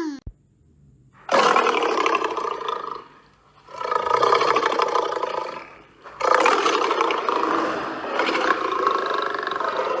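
Lion roaring: three long roars with short pauses between them, the last running to the end.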